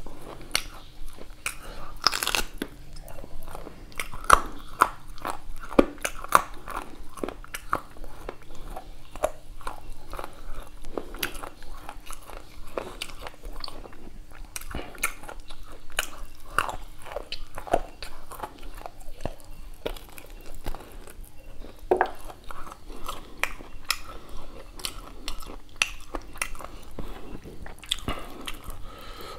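Close-up chewing and wet mouth sounds of a person eating rice and beef curry by hand: an irregular run of short smacks and clicks.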